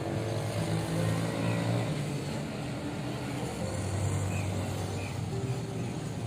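Town traffic heard from above: vehicle engines running and passing, with the hum changing pitch as they go by, and a few faint chirps.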